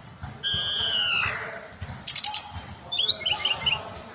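Tledekan gunung singing: a held whistled note that slides down at its end, then a short burst of sharp clicking notes and a run of quick high chirps.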